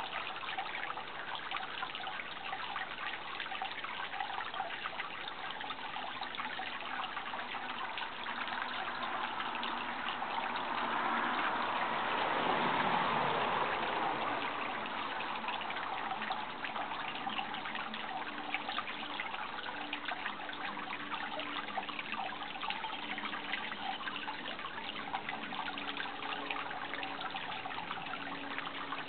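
Steady rush of flowing, trickling water, with a broader swell of noise that rises and falls about halfway through.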